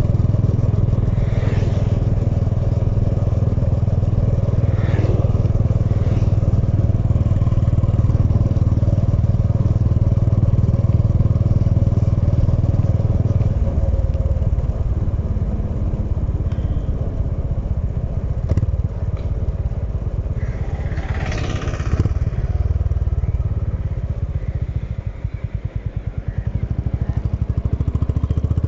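Honda H'ness CB350's single-cylinder engine running under way, heard steadily and heavily for the first half, then lighter from about halfway. Near the end it drops briefly to a slow pulsing beat, then picks up again.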